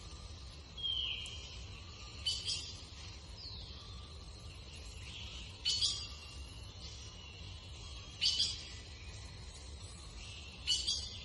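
Birds calling: short harsh high-pitched calls repeated about every two and a half to three seconds, with a couple of short falling whistles between them, over a steady low rumble.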